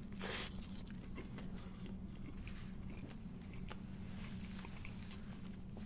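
A bite into a fried chicken sandwich just after the start, followed by close-up chewing with small wet mouth clicks, over a steady low hum.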